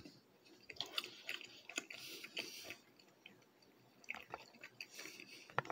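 Faint, close mouth sounds of someone chewing soft, chewy Hot Pocket pastry: small wet smacks and clicks in two spells, with a short lull about three seconds in.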